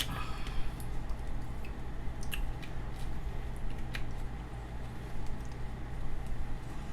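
Close-miked chewing with small wet mouth clicks and smacks, scattered and irregular, over a steady low hum.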